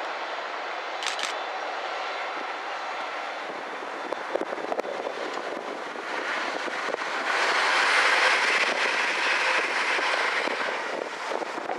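A Class 57 diesel locomotive running light, its engine drone fading as it moves away, with a few clicks from wheels over rail joints. A London Midland Class 350 electric multiple unit then passes, its rushing wheel and motor noise building from about halfway through and loudest shortly before the end.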